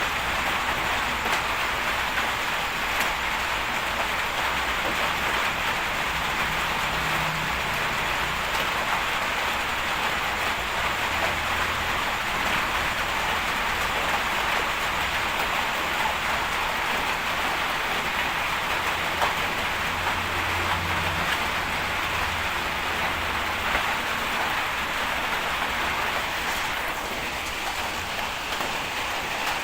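Steady hiss of rain falling on surfaces, with a faint low engine hum underneath that swells twice.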